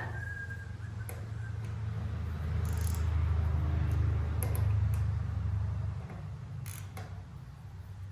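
A few scattered metallic clicks from a hand wrench working a banjo bolt on a tractor's fuel system, over a steady low hum that swells for a few seconds in the middle.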